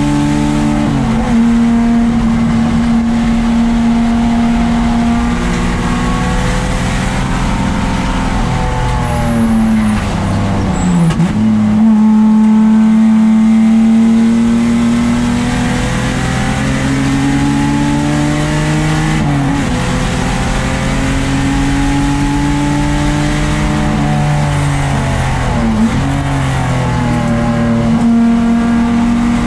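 Lexus SC300's 2JZ straight-six race engine pulling hard at racing speed. Its pitch climbs steadily and falls sharply several times as it shifts gears and slows for corners.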